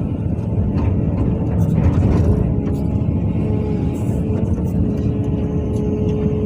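CAT 320D L excavator's diesel engine running steadily under working load, with a few short knocks and clanks.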